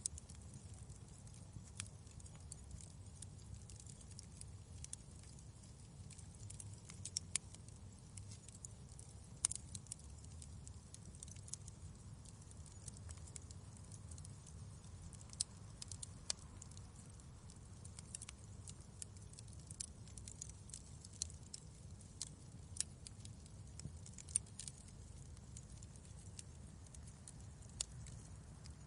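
Wood fire crackling in a fireplace: irregular sharp pops and snaps scattered over a low, steady rumble.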